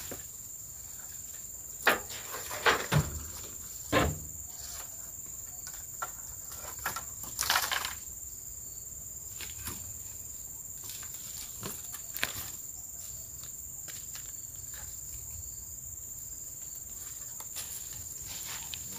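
A steady high insect drone, with a few scattered footsteps and rustles in undergrowth: a handful of short crunches in the first few seconds and a longer rustle near the middle.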